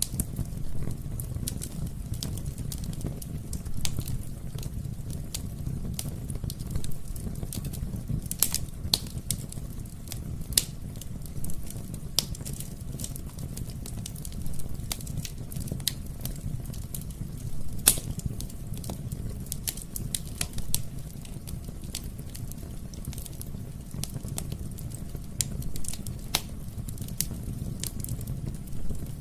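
Wood fire burning in a fireplace: a steady low rumble of the flames with irregular sharp crackles and pops, one louder pop about eighteen seconds in.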